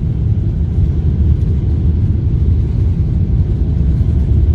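Boeing 777 takeoff roll heard from inside the cabin: the GE90 engines at takeoff thrust and the rolling airliner make a loud, steady low rumble.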